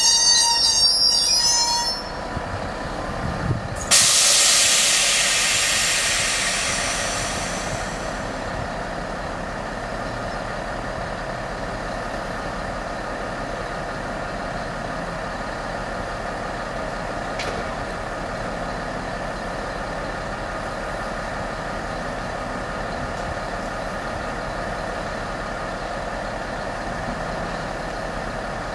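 Train wheels squeal on the rails at first and stop about two seconds in. About four seconds in a sudden loud hiss of air, like an air brake release, breaks out and fades over several seconds. After that a train's steady hum runs on.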